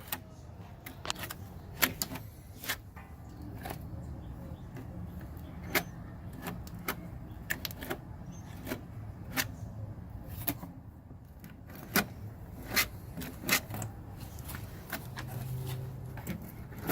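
Irregular sharp clicks and taps of a hand tool working filler paste into hollow areas of a damaged fiberglass boat hull, over a low steady hum.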